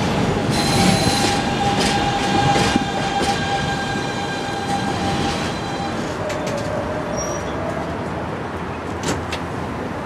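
New York City subway trains rolling along elevated track through a station, with a steady high wheel squeal held for the first six seconds. A lower squeal comes briefly after that, and a few sharp clicks follow near the end as the rolling noise eases slightly.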